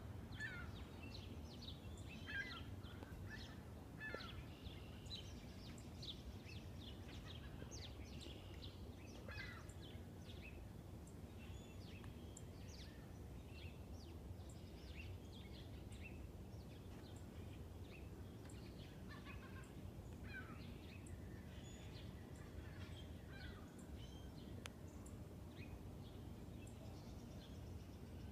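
Songbirds chirping in scattered short calls, over a faint steady low rumble.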